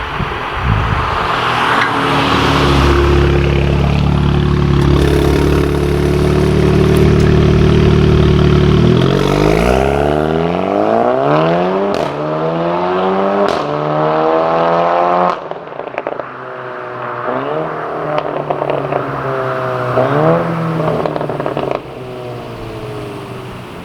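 Mk7.5 VW Golf R's turbocharged 2.0-litre four-cylinder breathing through an APR downpipe and APR valved catback exhaust. It holds steady revs, then revs up in one long climb with a couple of sharp cracks and cuts off suddenly. Several quick throttle blips follow, each rising and falling.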